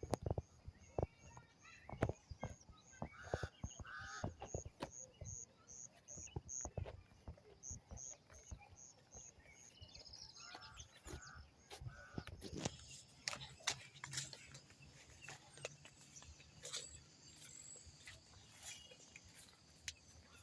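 Footsteps on a street walk with scattered clicks, and birds calling: a fast run of high, evenly repeated chirps through the first half, plus several short calls.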